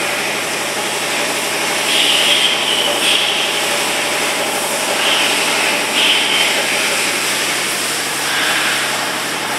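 Haas mini lathe running steadily, a continuous machine hiss and hum, with brief surges of brighter, higher hiss about two, five, six and eight seconds in.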